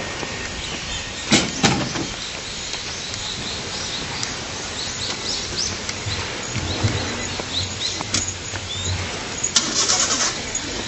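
Small birds chirping and calling repeatedly over a steady background hiss, with two sharp knocks about a second and a half in.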